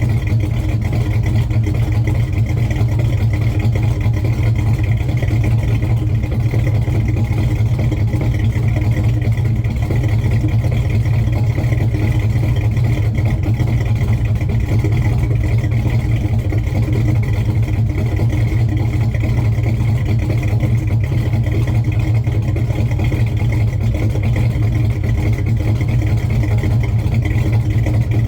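1970 Chevelle's engine idling steadily while it warms up after a cold start.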